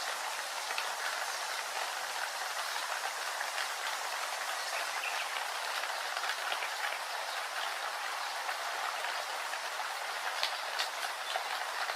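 Steady rain falling, an even hiss with many small scattered drop ticks throughout.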